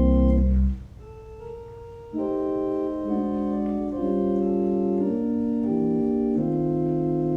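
Organ music in held chords. A full chord with deep pedal bass stops under a second in, a quiet single line follows, and sustained chords without the deep bass come back about two seconds in.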